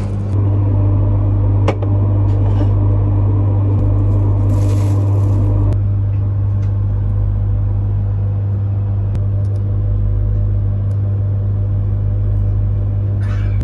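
Steady low hum and rumble inside a train carriage, with a single faint click about two seconds in.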